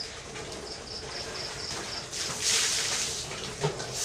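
Food goes into hot oil in a wok about two seconds in, with a sudden loud frying sizzle that keeps going. Before it, a high chirp pulses about four times a second.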